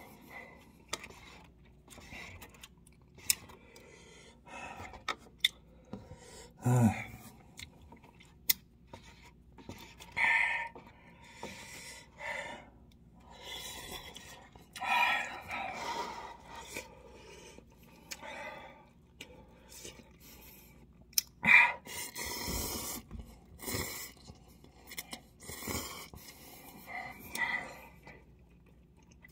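A man chewing cup ramen noodles close to the microphone, with wet mouth clicks and smacks and short breaths between mouthfuls. There are a few louder knocks, one of them low and dull about seven seconds in.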